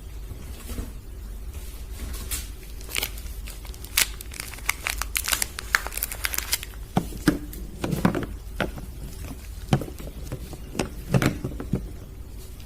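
Soap wrappers crinkling and tearing as soap bars are unpacked by hand: a run of irregular sharp crackles and rustles.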